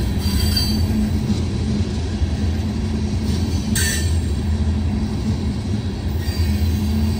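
Freight train tank cars rolling past: a steady low rumble of steel wheels on rail. A faint high wheel squeal comes right at the start and a short, sharper squeal about four seconds in.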